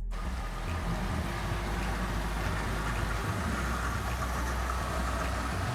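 Model train running along the layout track, a steady rumble of wheels and motor.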